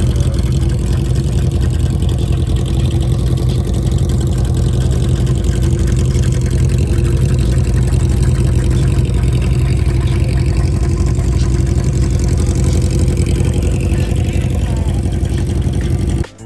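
Motorcycle engine running loud and steady, with a fast, even firing pulse. It starts and stops abruptly.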